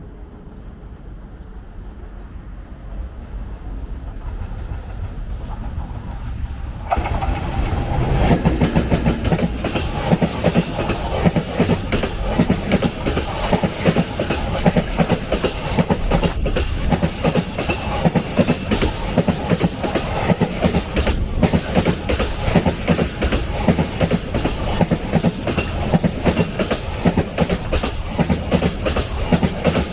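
JR Freight EF210 electric locomotive hauling a freight train. It approaches with a low rumble that grows louder, then passes close from about seven seconds in, its wheels clattering over the rail joints in a dense, continuous run of clicks.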